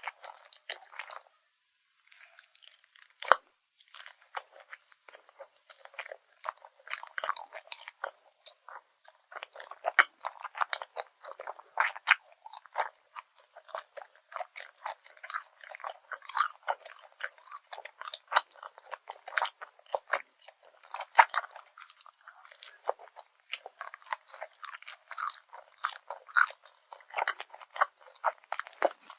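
Close-miked chewing of grilled garaetteok (Korean cylinder rice cake) with jocheong grain syrup: a steady stream of irregular, quick, clicky bites and wet, sticky mouth sounds, pausing briefly near the start.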